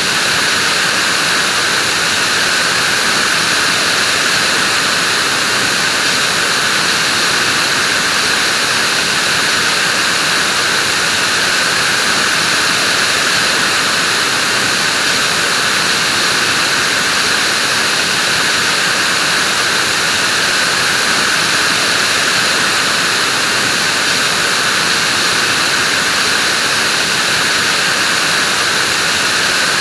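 Vacuum cleaner running steadily, an even, unchanging rush of motor and airflow noise.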